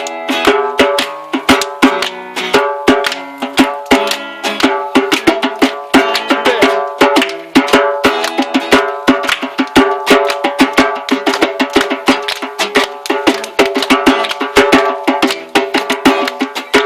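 Acoustic guitar strummed in a quick, steady rhythm with a djembe played along, no singing: an instrumental stretch of a song.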